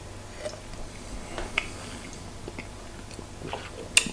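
Mouth and lip smacks of someone tasting beer, a scatter of small wet clicks with a sharper click near the end.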